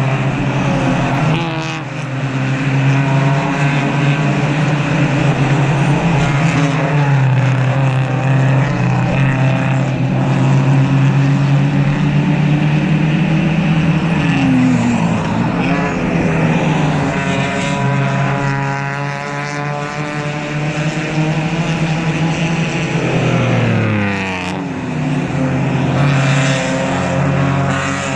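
Several club race cars running hard past a trackside corner, their engines overlapping at high revs. Engine pitch drops sharply twice, about halfway through and again near the end, as cars pass or shift down.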